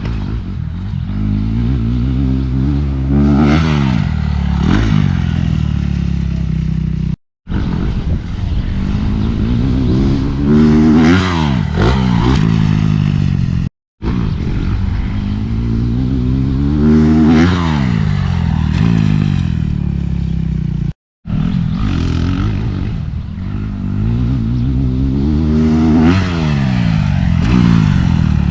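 Dirt bike engine being ridden hard on a motocross track, its pitch repeatedly climbing as the throttle opens and falling back at gear changes and off the throttle. The sound cuts off abruptly three times where separate clips are joined.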